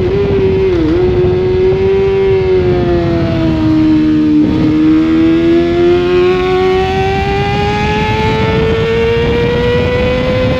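Sportbike engine heard from on board at high revs. Its pitch falls over the first four seconds or so, with a quick dip about a second in, as the bike slows, then climbs steadily as it accelerates again, over a steady rush of wind noise.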